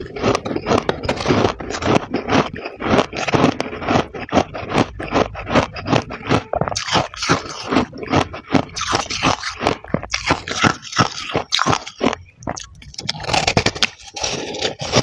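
Freezer frost crunching close to the microphone, a fast, dense run of crisp crunches and scrapes as the frost is scraped up and chewed.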